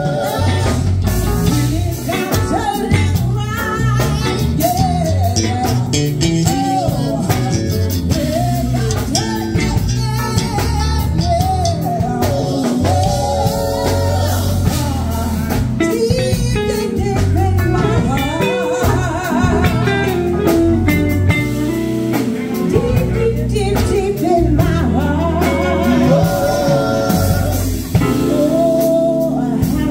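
Live band playing a blues song: a singer with a wavering vibrato over guitar, bass and drums.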